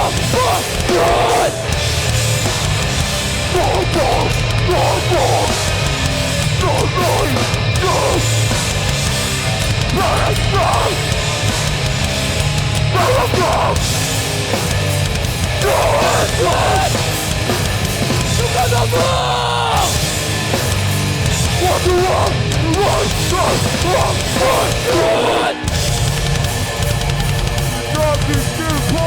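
Hardcore band playing live through a PA: heavy distorted guitars, bass and drums with shouted vocals. The band stops for an instant near the end, then comes straight back in.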